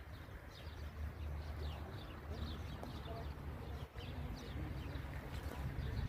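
Small birds chirping over and over in short, high, down-slurred notes, above a low steady rumble.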